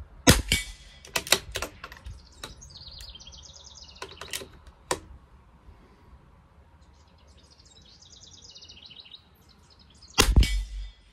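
A bird singing in two short runs of quick repeated high chirps, with scattered sharp clicks and knocks from handling gear, and a loud thump near the end.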